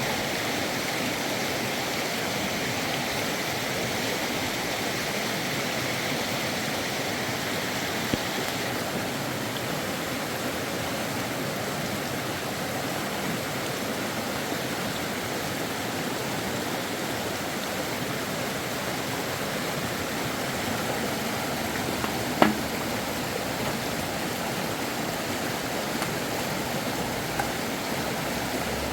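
Flowing river water rushing steadily. A single sharp click is heard about two-thirds of the way through.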